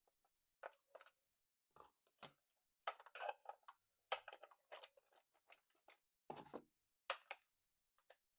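Hands handling a plastic toy and its packaging, making irregular short crinkles, rustles and clicks, with a few louder ones about three and four seconds in.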